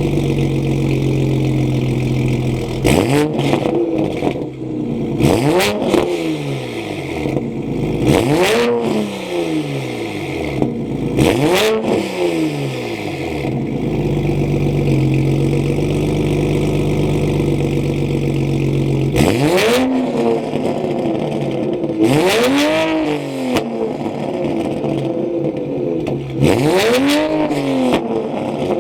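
Toyota Supra's engine idling and being blipped into about seven quick revs, each climbing and falling back in pitch. Four revs come in the first half, then a steady idle, then three more.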